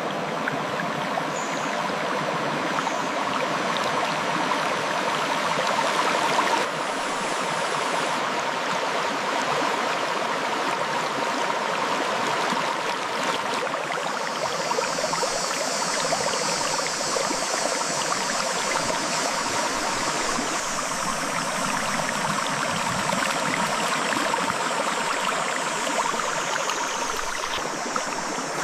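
River water flowing over rocks: a steady, unbroken rushing and gurgling.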